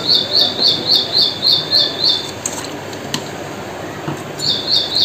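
A bird chirping in a fast, even series of high calls, about four a second, that breaks off about two seconds in and starts again near the end.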